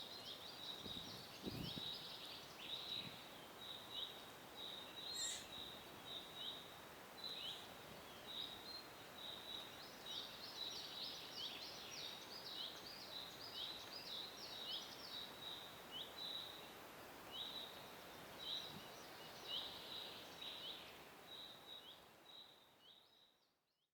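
Small birds chirping, short high cheeps repeated several times a second over a steady hiss, fading out near the end.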